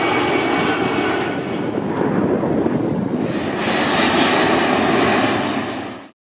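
Jet airliner engines running loud: a dense, steady noise with a faint high whine, growing a little louder about halfway through and stopping suddenly near the end.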